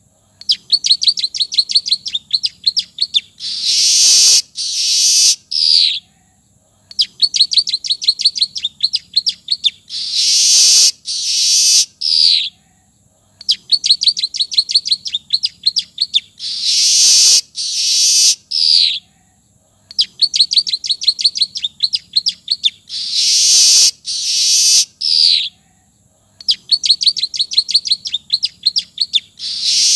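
Manyar weaver song, looped as a training recording. Each phrase is a rapid dry ticking trill of about two seconds, said to be filled with ciblek (bar-winged prinia) notes, followed by a loud hissing wheeze and a short falling note, then a pause. The phrase repeats about every six and a half seconds.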